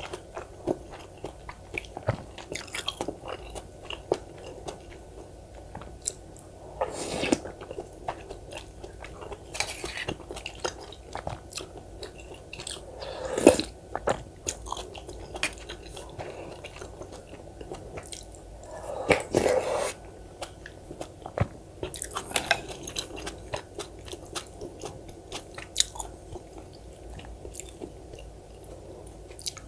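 Close-miked eating sounds of rice cake dumpling soup and cubed radish kimchi: steady chewing and biting with many small wet clicks, and a handful of louder bites or crunches spread through.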